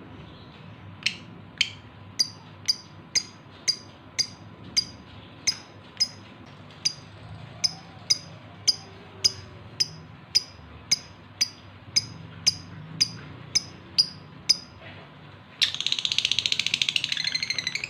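Male lovebird in breeding condition calling to a hen: a long run of sharp, short, high chirps at nearly two a second, then a loud, rapid chattering warble near the end.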